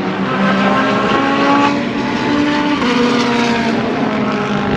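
Several race car engines running at once on the circuit, their notes overlapping at different pitches that hold and then step up or down as the cars change speed.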